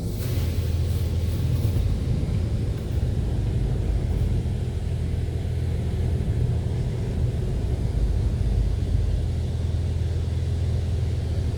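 Automatic car wash machinery running with a steady low rumble, joined by a hiss that starts suddenly at the outset and keeps on, in the cleaning stage between the pre-fill product and the sealant.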